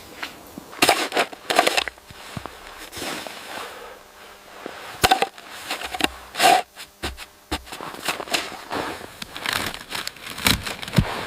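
Irregular sharp clicks, knocks and crackles, about a dozen spread unevenly over the seconds, the loudest about a second in and again between five and seven seconds in.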